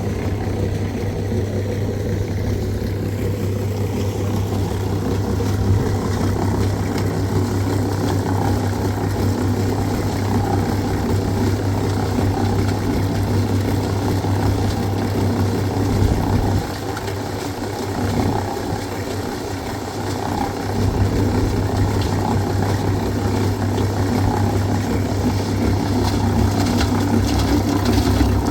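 An engine running steadily with a deep hum. About two-thirds of the way through, its low hum drops away for a few seconds, then comes back.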